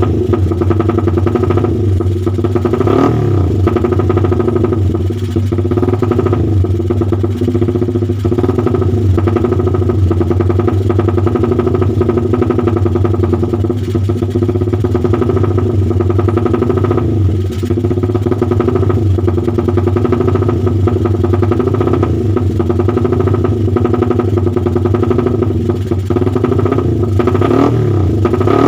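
Motorcycle engine running through a loud, race-only aftermarket exhaust with a short silencer (22 cm, 50 mm inlet, 60 mm outlet), held at a steady idle. There is a brief throttle blip about three seconds in and another near the end.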